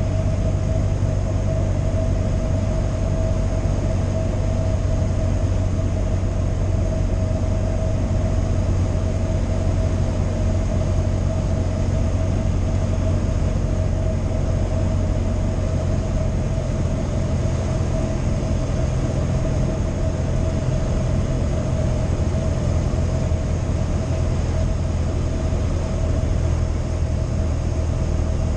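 Cessna 172 light aircraft's piston engine and propeller running at a steady drone, with a constant low hum and a steady higher tone. It starts abruptly and holds unchanged throughout.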